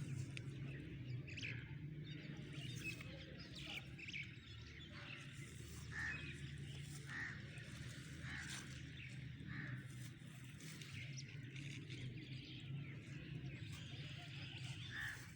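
Faint outdoor birdsong: a bird gives short chirps, a run of them about a second apart near the middle and one more near the end, over a steady low background rumble.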